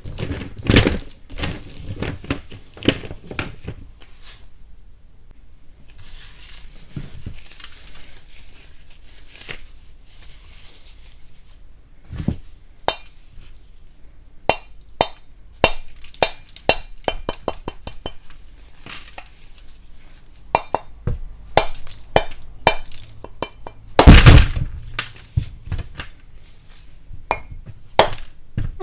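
Lumps of chalk being broken and knocked: irregular sharp cracks and clinks, with a soft crumbling hiss in a quieter spell a few seconds in and the loudest cluster of cracks about 24 seconds in.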